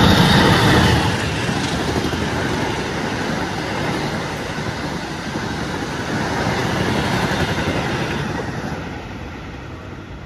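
Diesel-hauled passenger train passing at speed: the locomotive is loudest in the first second, then the coaches' wheels run steadily on the rails, fading near the end as the last coach moves away.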